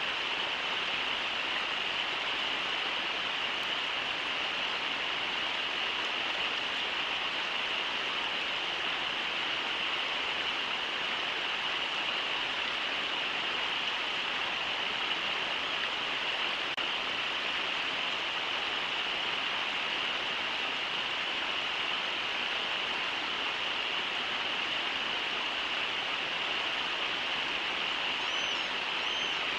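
Steady rush of the Brooks River flowing over shallow riffles, an even hiss with no breaks. Near the end a bird chirps faintly twice.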